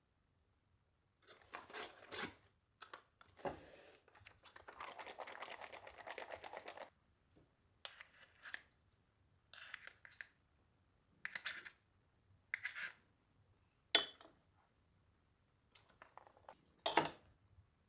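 Small household handling sounds: scattered light knocks and clinks, a rustling scrape lasting a few seconds about four seconds in, and two sharp clicks near the end.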